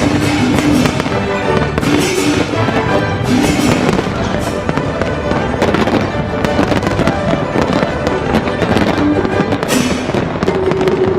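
Fireworks bursting in quick succession as a dense run of cracks and bangs, over loud music from the show's soundtrack with sustained melodic notes.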